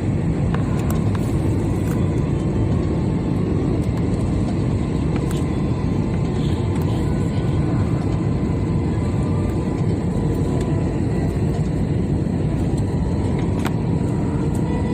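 Steady roar of engine and airflow noise inside the cabin of an Airbus A320 airliner, with a few faint clicks.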